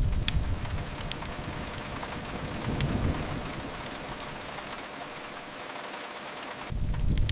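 Steady rain mixed with a crackling wood fire: scattered sharp pops over an even hiss. A low rumble fades about a second in, swells briefly around the middle, and returns suddenly near the end.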